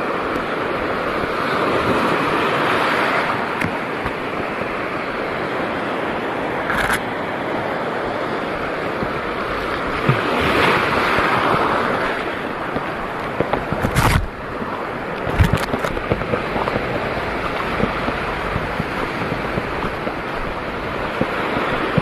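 Sea water washing and surging, with wind rumbling on the microphone; the wash swells louder a couple of times, and a few sharp knocks or splashes cut through partway along.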